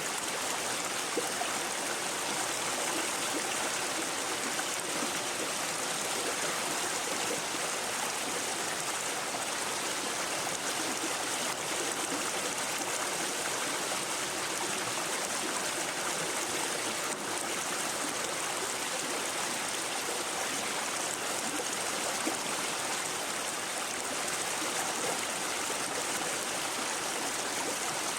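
A shallow brook babbling over stones: a steady, even rush of running water with fine gurgles and trickles.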